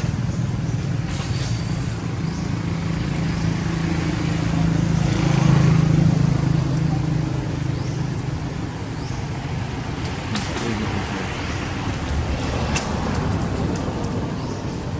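A motor vehicle's engine running, swelling to its loudest about six seconds in and then fading as it passes, with a few faint clicks later on.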